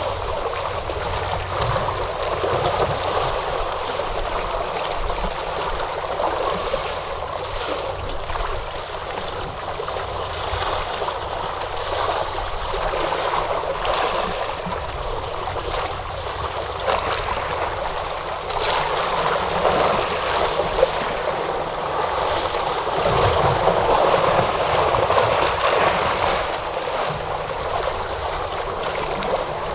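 Ocean surf washing on a shore: a continuous rush of water that swells louder a couple of times in the second half.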